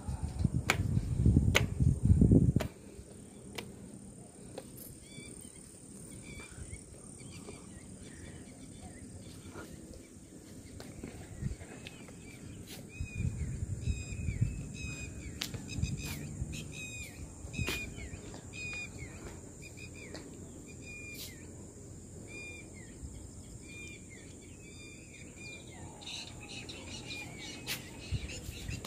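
Quiet outdoor evening ambience with a bird repeatedly giving short falling chirps, thickest in the middle and later part, and scattered sharp clicks. In the first couple of seconds there are heavy low thumps and rumble.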